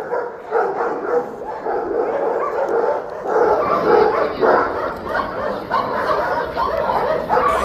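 Many dogs barking and yipping at once, their calls overlapping without a break.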